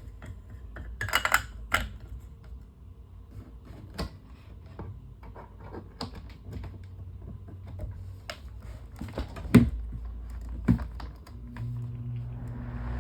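Irregular plastic clicks and knocks from hands handling and fitting electric fan parts, such as the blade and its retaining cover. A steady low hum starts near the end.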